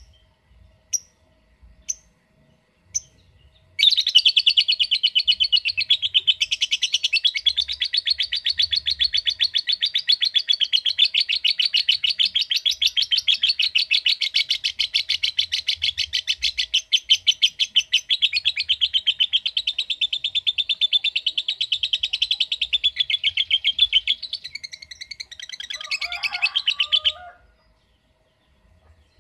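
Lovebird singing: a few short sharp chirps, then a long unbroken chattering trill of rapidly repeated high notes, the 'ngekek panjang', lasting over twenty seconds before it stops abruptly.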